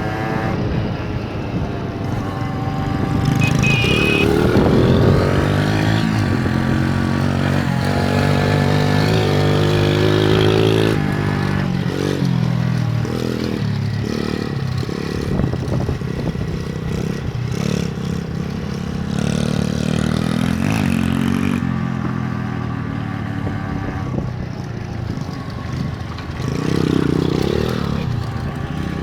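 Small motorcycle engine being ridden, revving up and easing off again and again, its pitch climbing and dropping repeatedly.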